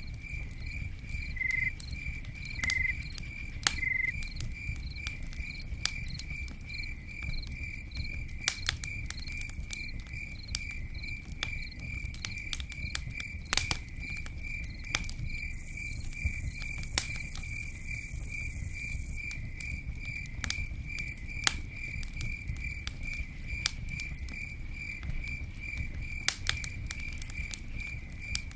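Campfire burning with a low rumble and scattered sharp crackles and pops from the wood, with a brief high hiss midway. A cricket chirps steadily throughout in even, rapid pulses.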